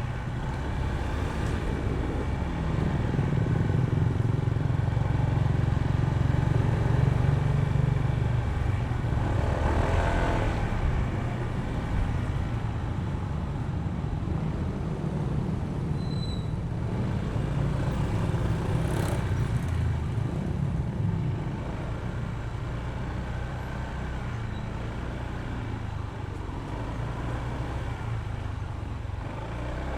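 Honda ADV160 scooter's single-cylinder engine running under way, with road and traffic noise. It is louder from about three to ten seconds in, with two brief swells of passing noise around ten and nineteen seconds in.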